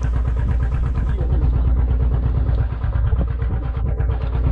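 Engine on a fishing boat running steadily at idle, a low even hum with rapid firing pulses.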